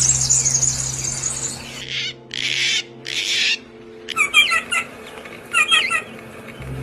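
Birds calling: a fast high-pitched trill, then two harsh, raspy calls, then several quick groups of short chirps. A steady low hum runs underneath, dropping out in the middle and returning near the end.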